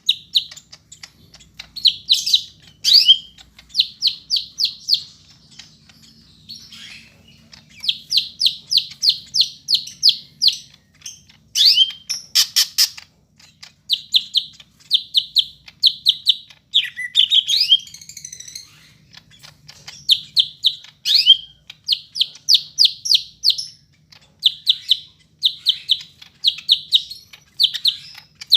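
Greater green leafbird (cucak hijau) singing a dense, tightly packed song: quick runs of repeated high chirps, several a second, in phrases of about a second each, broken by short pauses and mixed with a few squeaky rising and falling whistles.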